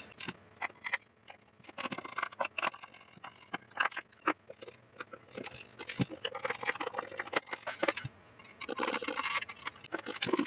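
Pieces of a small wooden birdhouse kit being handled and fitted together: irregular light clicks, taps and scrapes of wood on wood.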